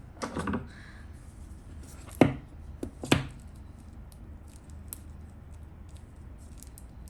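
Hands opening and handling a small metal tin that holds a tarot deck: a short scrape near the start, then two sharp knocks about a second apart, with light clicks and taps in between and after.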